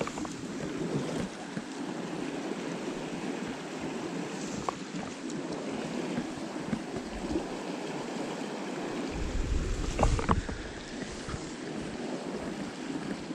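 Mountain stream water rushing steadily over rocks. About nine seconds in, a louder low rumble rises for a second or so with a couple of sharp knocks.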